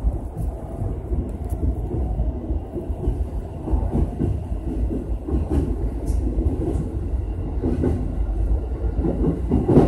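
E233 series electric train running along the track, heard from inside the front car: a steady rumble of the wheels and running gear.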